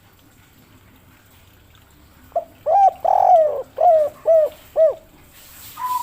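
Spotted dove (derkuku) cooing: a phrase of about six short arched coos, the third longer and rougher, beginning about two and a half seconds in. A steady higher tone starts just before the end.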